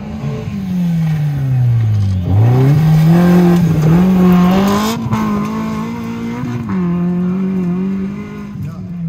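Suzuki Jimny trial competition truck's engine revving as it drives through a dirt course section: the revs sag for about two seconds, then jump sharply back up and hold high, with a brief dip near the end.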